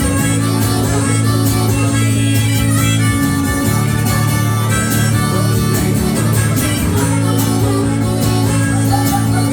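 Harmonica playing a solo over steadily strummed guitar: an instrumental break between verses of a folk song.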